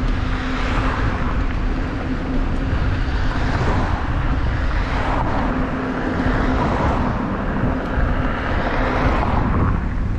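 Wind rumbling on the microphone while cycling, with road traffic swishing past: about three vehicles swell and fade in turn.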